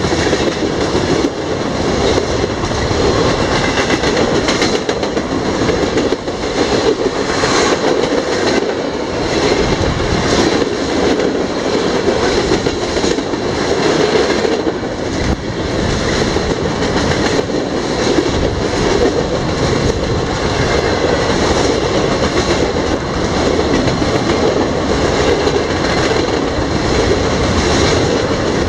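Freight train cars (tank cars and boxcars) rolling past at close range: a loud, steady rumble and rattle of steel wheels on the rails, with repeated clacks from the wheels.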